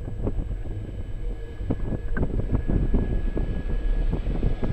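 Electric passenger train of double-deck coaches passing close by. A heavy low rumble runs under a rapid, irregular clatter of wheels over rail joints and points.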